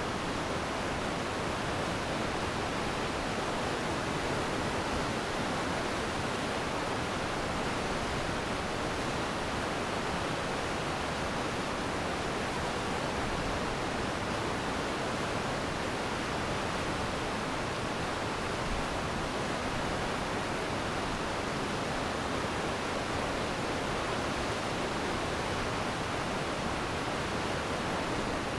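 Glacier meltwater stream rushing steadily over rocks, an even wash of water noise without breaks.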